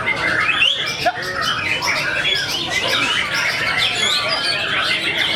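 White-rumped shamas singing, a dense run of overlapping whistles, chirps and harsh calls with no break.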